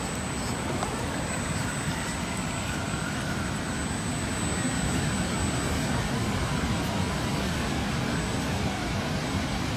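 Electric motor and gear drivetrain of an Associated Enduro radio-controlled scale crawler whining as it drives through mud, the pitch wavering with the throttle. Under it there is a steady rushing noise, and above it a thin steady high tone.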